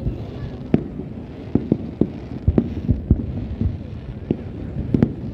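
Fireworks display: about a dozen low, dull booms of aerial shells bursting at irregular intervals over a steady background rumble.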